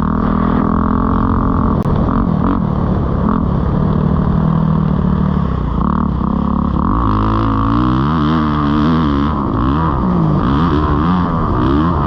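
Kawasaki KX450 motocross bike's four-stroke single-cylinder engine running loud at a steady pitch, then from about seven seconds in revving up and down repeatedly as the throttle is opened and closed.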